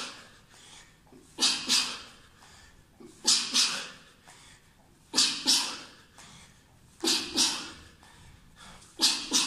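A person exercising, breathing out in short, sharp, forceful hisses. The breaths come in pairs about every two seconds, in a steady exercise rhythm.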